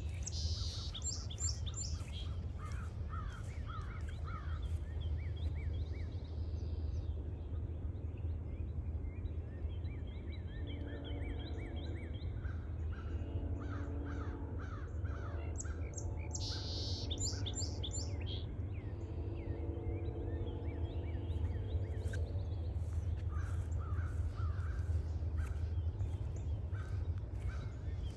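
Woodland birds calling and singing, with a crow cawing repeatedly through the middle. A steady low rumble runs underneath.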